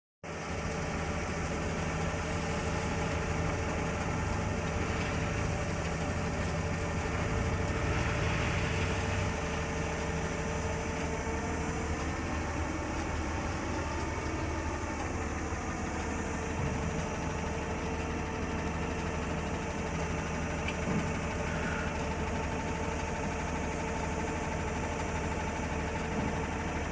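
Heavy construction machine's engine running steadily, its pitch rising and then falling slightly about halfway through.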